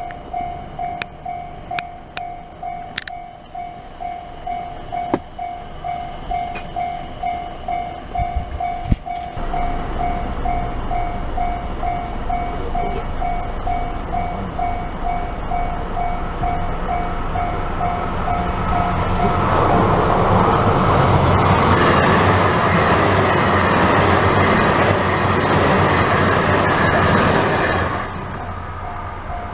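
A level-crossing bell rings about twice a second. A diesel train's rumble builds under it, then the train passes loudly over the crossing with a thin high whine on top. The sound drops away suddenly near the end.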